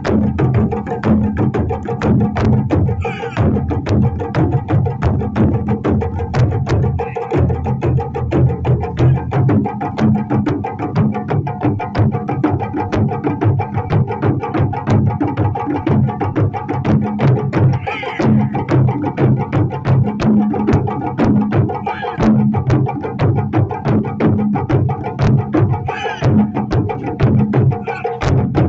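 Taiko drums played in a fast, dense, driving rhythm, with sharp clicking strokes mixed in among the deep drum hits.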